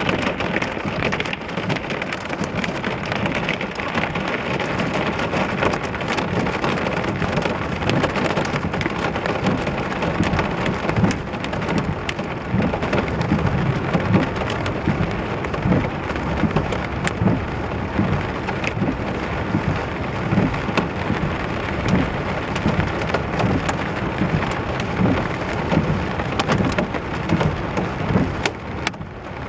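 Heavy thunderstorm downpour: rain pouring steadily, with many individual drops striking close by.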